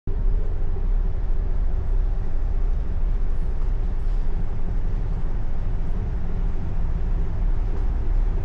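Steady low rumble of a large running engine, with a constant hum over it and a wash of noise.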